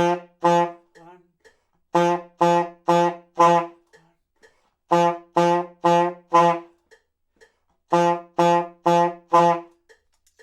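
Saxophone playing short, punchy tongued attacks on a low D, in groups of four notes at two notes a second with a pause between groups: the end of one group, then three full groups. The last note of each group is held slightly longer.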